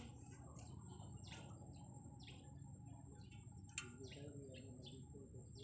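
Faint bird chirps: short, quick calls repeating irregularly, with a single sharp click a little past the middle.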